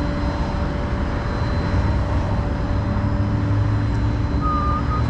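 Tow truck engine running steadily in a low rumble. A few wavering whistled notes start near the end.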